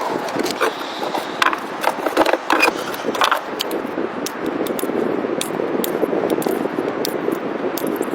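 Steady scraping and rustling, with many sharp clicks and taps scattered through it.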